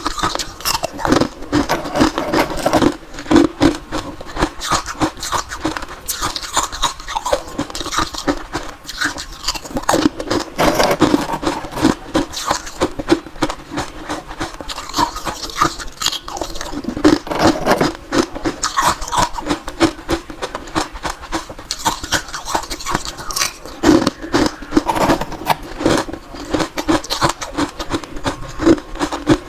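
Close-miked chewing of crunchy ice: many crisp crunches and cracks in quick succession throughout.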